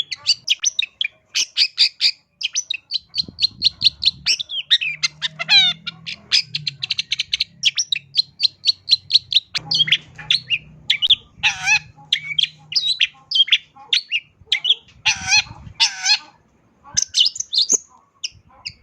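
Long-tailed shrike (cendet) singing a long, fast, varied song of rapid chattering notes mixed with gliding trills and a few harsher calls, the song full of phrases copied from other birds.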